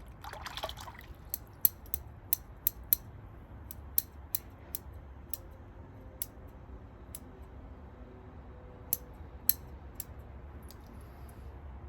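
Scissors being worked open and shut as the dirt is cleaned off them. A short rustle comes first, then a dozen or so sharp, unevenly spaced clicks of the blades.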